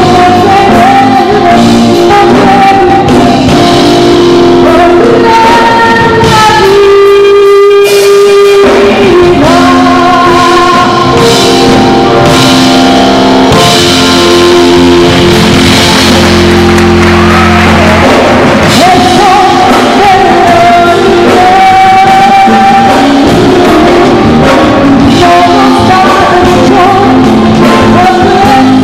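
A woman singing live with instrumental accompaniment in a large hall, holding long notes with vibrato.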